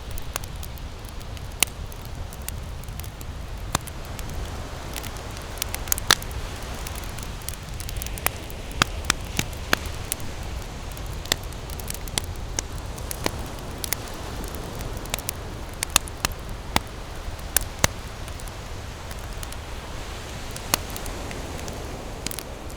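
Wood campfire burning, with sharp crackles and pops at irregular intervals over a steady low rumble and hiss.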